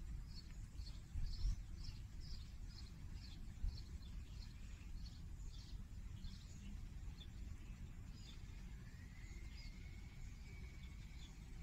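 A small bird chirping over and over, short high chirps about three a second, over a steady low rumble of wind and distant traffic. Near the end a thin high tone rises and then holds.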